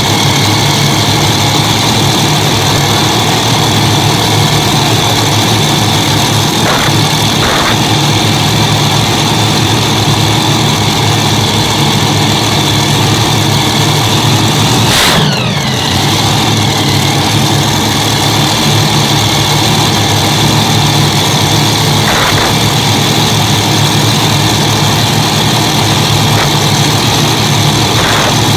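Competition pulling tractor's Hemi V8 engines running loudly at a steady idle during an engine test. About halfway through the sound dips briefly, with a short falling whine.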